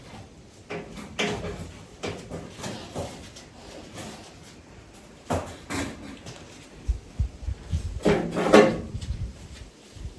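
Irregular knocks, clatters and scrapes of hands and tools working a new front brake line into place under a car, with a louder stretch of scraping and rattling about eight seconds in.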